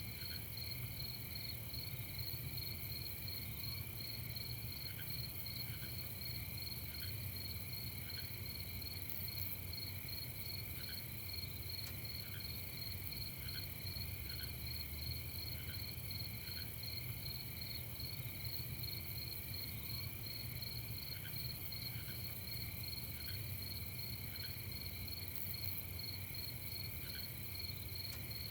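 Night chorus of crickets chirping steadily in fast, continuous trills, with a lower, sparser chirp coming in now and then, over a faint low hum.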